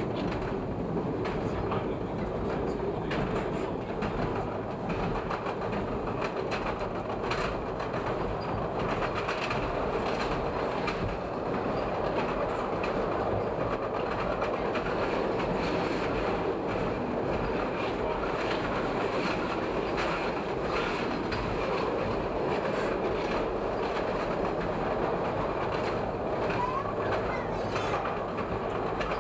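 Chicago 'L' elevated rapid-transit train running at speed, an even wheel-and-rail noise with scattered clicks as the wheels pass over rail joints.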